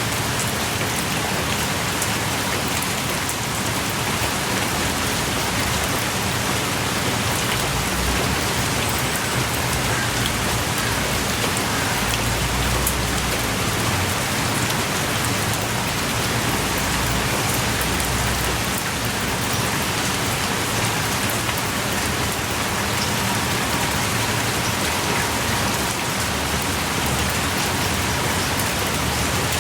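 Heavy rain pouring steadily outside a small cave, with scattered drops and a faint low rumble underneath.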